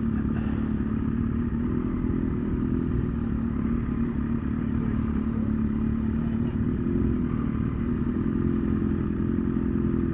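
Triumph Daytona 675's three-cylinder engine running steadily at low revs, the pitch easing a little midway and coming back up near the end.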